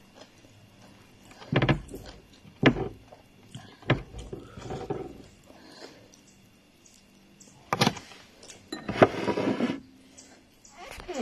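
Several short knocks and thuds, one at a time a second or so apart, then a longer clattering, rustling stretch near the end.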